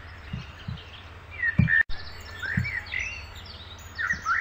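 Birds chirping, with scattered short rising and falling calls over a steady low hum and a few soft low thumps; the sound cuts out completely for an instant just before two seconds in.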